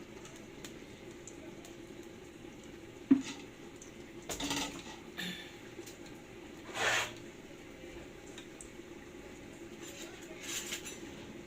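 Kitchen pot and utensil handling over a steady low hum: one sharp knock about three seconds in, then a few brief scraping and rustling noises.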